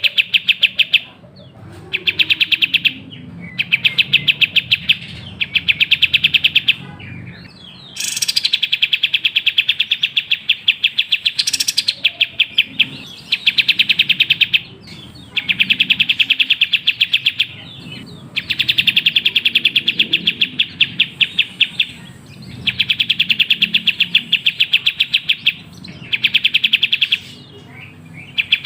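A kapas tembak bulbul singing: rapid runs of sharp, evenly repeated chirps, each run lasting a second or two with brief pauses between. It is a lure recording of this species' chattering song, meant to stir a sluggish caged bird into singing.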